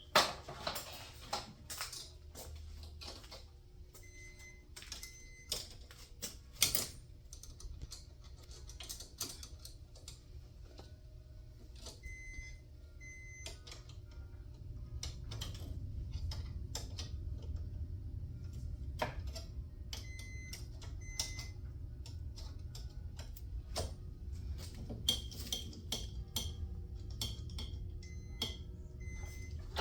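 Scattered clicks and light metallic taps of hand tools working on a garage door torsion-spring cable drum as it is loosened, with a low rumble swelling in the middle.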